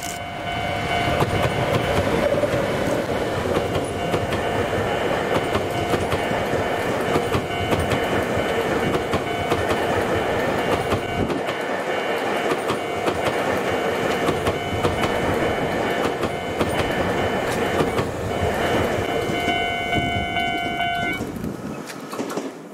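A train hauled by a Chichibu Railway Deki 100-class electric locomotive running past with new Tobu 500 series cars: a continuous rumble and clatter of wheels on rail, with several steady high-pitched tones running over it, strongest near the end. The sound falls away shortly before the end.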